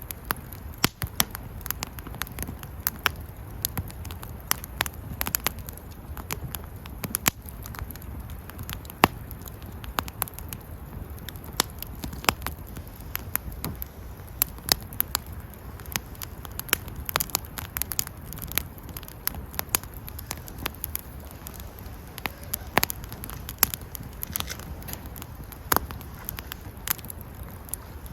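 Wood campfire crackling, with many irregular sharp pops and snaps over a low, steady rush of flame.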